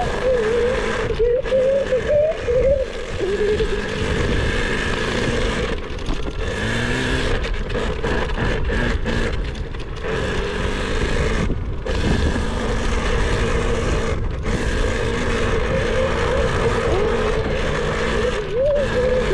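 Dirt bike engine running and revving up and down as it is ridden, its pitch rising and falling unevenly.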